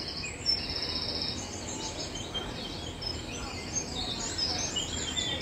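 Small birds chirping and trilling in short, rapid high phrases repeated throughout, over a steady low background hum.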